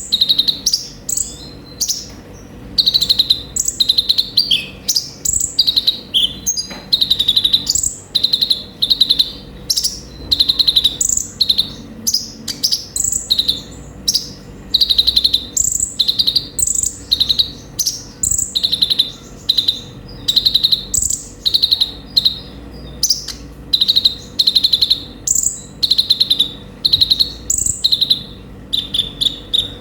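Konin ('kolibri ninja') sunbird singing: fast, high chirping phrases repeated one after another with short pauses, full of varied notes. A faint steady hum lies under the song.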